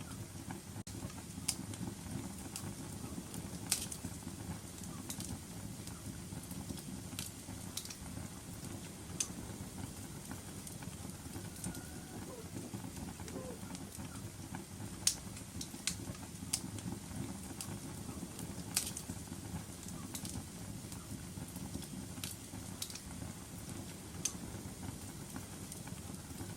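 Wood fire crackling in a fireplace: a steady low rumble of burning with sharp snaps and pops at irregular intervals, a few of them louder than the rest.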